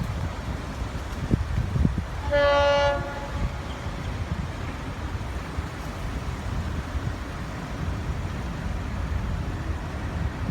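One short horn blast of about half a second from an approaching Florida East Coast freight locomotive, over a steady low rumble. Two brief thumps come just before it.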